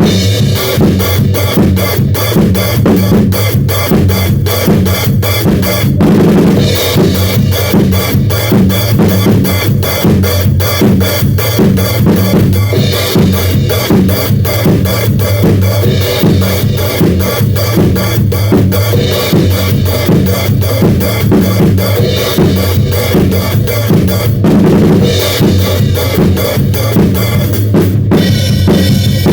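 Drum kit playing a steady beat of bass drum and snare over a worship song's recorded band track.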